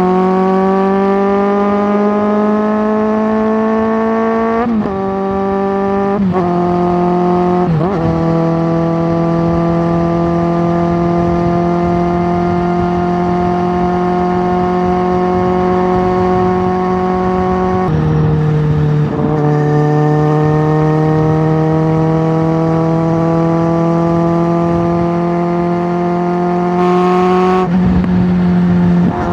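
Suzuki GSX650F inline-four engine running through a Tiger aftermarket exhaust under way. Its pitch climbs slowly and then drops sharply, about six times, like upshifts while accelerating.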